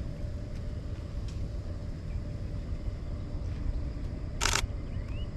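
Nikon D500 DSLR shutter released once, a brief sharp clack about four and a half seconds in, over a steady low rumble. Faint rising bird chirps follow near the end.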